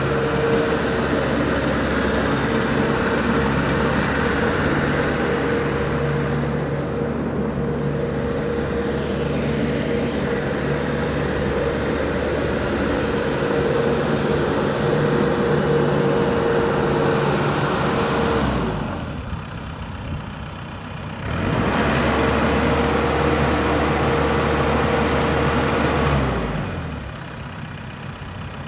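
New Holland T4.80V tractor's diesel engine running steadily at raised revs. It drops to idle about two-thirds of the way through, revs back up a few seconds later, then falls back to idle near the end.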